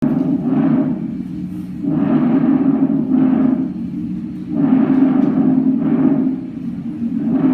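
Recorded lung sounds heard through a stethoscope: breath after breath, swelling and fading about every two and a half seconds, over a steady low droning tone.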